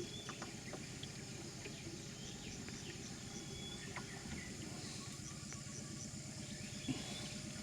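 Rainforest ambience: a steady insect drone with a faint, evenly pulsing high chirp, and a few short bird whistles over a low steady hum.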